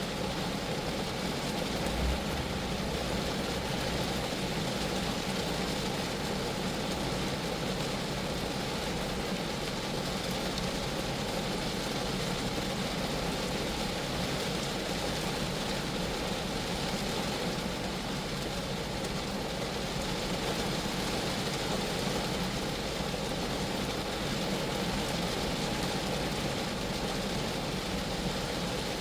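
Steady rain falling on a Geo Metro, an even patter of drops on the small car's body and glass, with one soft low thump about two seconds in.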